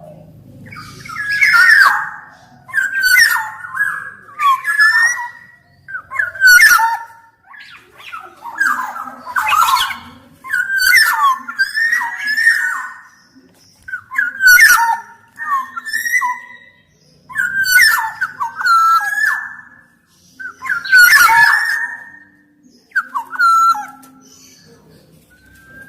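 Black-naped oriole (kepodang) singing: short, loud whistled phrases repeated every second or two, mixed with scratchy, harsh notes.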